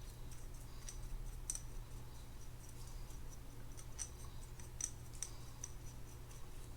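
Light irregular clicks and ticks of small metal reel parts being handled while grease is brushed onto the gears, over a low steady hum.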